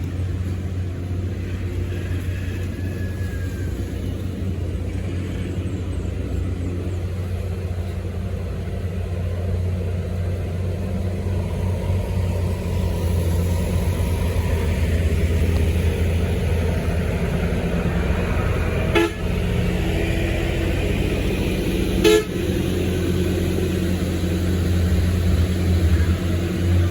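Road traffic: a vehicle engine runs with a steady low drone while car horns toot, and two sharp knocks sound about 19 and 22 seconds in.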